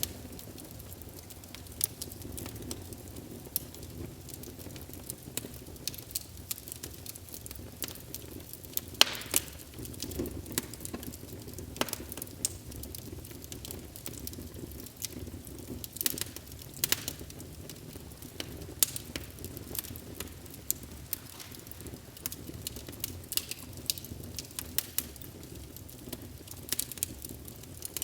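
Wood fire in a fireplace burning with a steady low rumble and irregular crackles and pops, a few sharper pops standing out.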